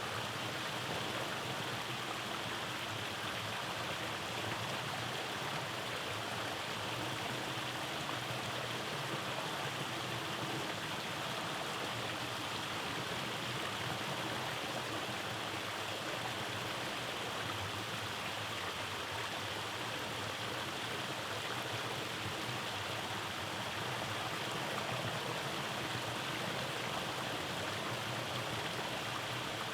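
Rainforest stream running over cascades: a steady rush of flowing and falling water.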